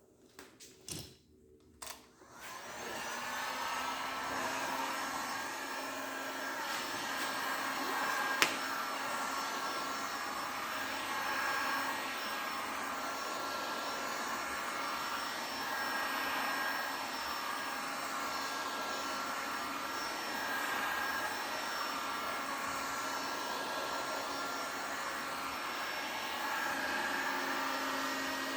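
An electric blower is switched on a couple of seconds in and keeps running steadily, a whooshing motor noise with a low hum and a few steady whining tones. A few light knocks come before it, and a single sharp click comes a few seconds after it starts.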